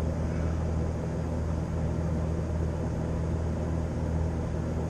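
Steady low mechanical hum at an even pitch, running without change.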